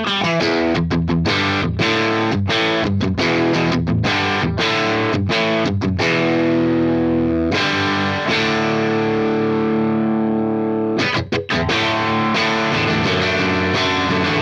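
Electric guitar played through an overdriven Fender Blues Junior IV tube amp, recorded through a reactive load and a 4x12 Vintage 30 cabinet impulse response. Quick picked notes give way to two held chords ringing out in the middle, then a brief break and more picking near the end.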